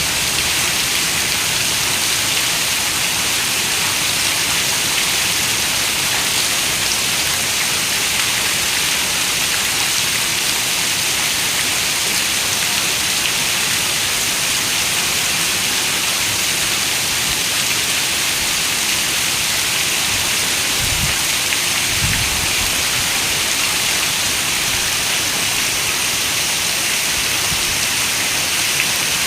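Steady rain, a dense even hiss, with a couple of brief low rumbles a little after twenty seconds in.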